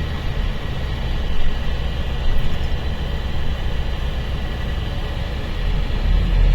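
Mercedes-Benz O-500RSD bus's diesel engine running with a steady low rumble, which grows louder near the end.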